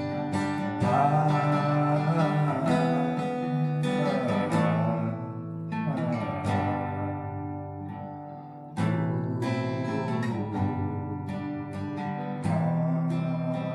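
Acoustic guitar playing, with strummed chords and plucked notes. It eases off about eight seconds in, then comes back with a hard strum about a second later.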